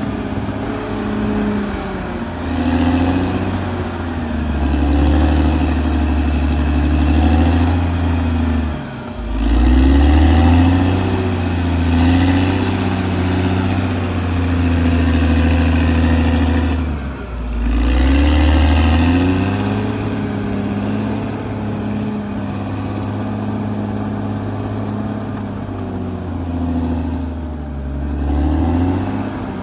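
Caterpillar D6R XL bulldozer's diesel engine running hard, its note dropping and picking back up again three times: about a third of the way in, past the middle, and near the end.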